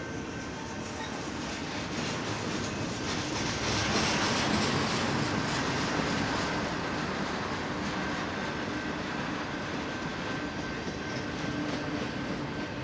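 BNSF intermodal freight train rolling past, steel wheels running on the rails with a steady noise that swells about four seconds in and then eases slightly.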